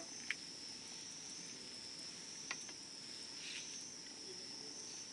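Steady high-pitched chirring of crickets, with two small pops from a wood campfire, one just after the start and a fainter one about two and a half seconds in.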